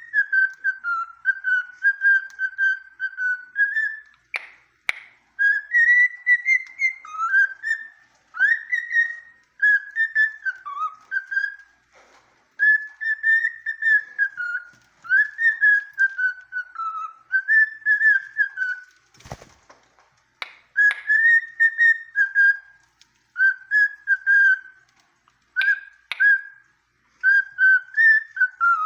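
Cockatiel whistling a song: a long string of warbling whistled phrases that rise and fall, with short pauses between them. A few brief clicks or taps fall among the phrases, and a single sharp knock comes about two-thirds of the way through.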